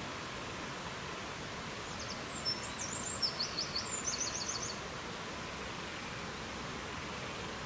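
Steady rushing wind noise, with a small songbird singing one short phrase of quick high notes that ends in a rapid trill, about two to four and a half seconds in.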